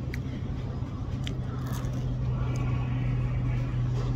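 A person chewing and biting food, with a few small crunches and clicks, over a steady low hum.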